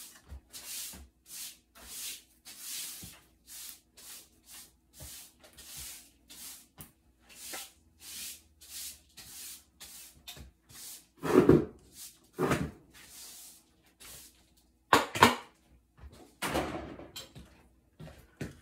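Repeated brushing strokes of cleaning, about two a second, followed by several louder knocks and bumps in the second half.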